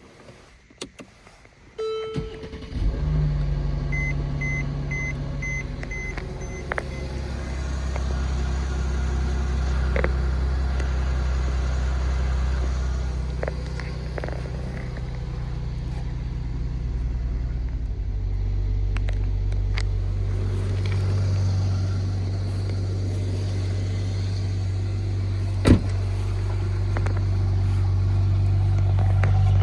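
Mercedes-Benz E400 Cabriolet's twin-turbo V6 starting from cold about two and a half seconds in and settling into a steady fast idle. A row of short electronic warning beeps sounds in the first few seconds of running. The idle note changes about 18 seconds in, there is a single sharp click near the end, and the engine grows louder in the last few seconds.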